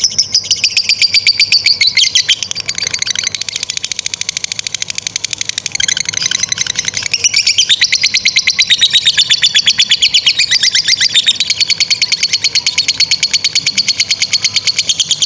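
Lovebird singing a long ngekek: an unbroken, rapid chattering trill of sharp, high notes, well over ten a second, whose pitch dips and climbs back in waves.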